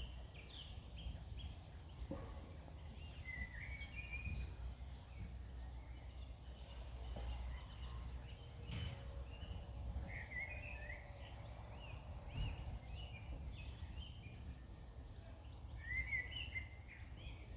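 Several small birds singing in a park, with short chirping and warbled phrases coming again and again throughout, over a steady low rumble.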